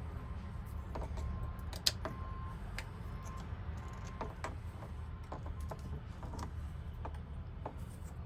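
Scattered small metal clicks and taps of hand tools working loose parts of a car lock, with one sharper click about two seconds in, over a steady low hum.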